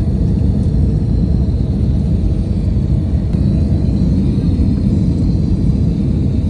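Airliner cabin noise heard from a window seat: a steady, loud, low rumble of engines and airflow with a faint steady high whine.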